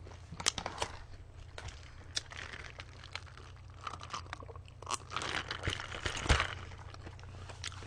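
Close-miked chewing and crunching of pizza, with small wet mouth clicks, broken by a drink from a glass around the middle, and a soft knock about six seconds in.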